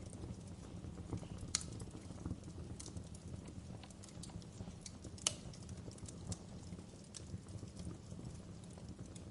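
Wood fire crackling in a fireplace: irregular sharp pops and snaps over a low steady rumble, with two louder pops about a second and a half in and about five seconds in.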